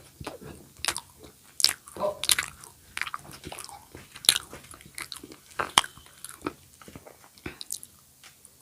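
Close-miked crunchy eating: crisp bites and chewing of a crunchy snack, with sharp irregular crackles every half second or so.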